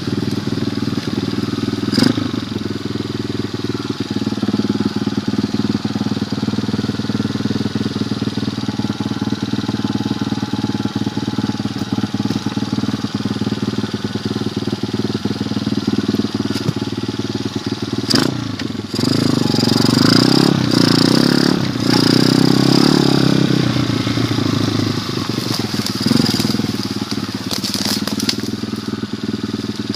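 Pit bike engine running steadily, growing louder from about 19 to 24 seconds in as it is revved or ridden harder. Sharp knocks come about 2 and 18 seconds in.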